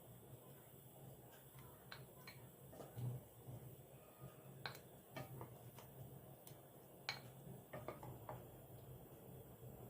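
Faint, scattered clicks and light clinks of dishes and kitchen utensils being handled, at irregular intervals over a low steady hum.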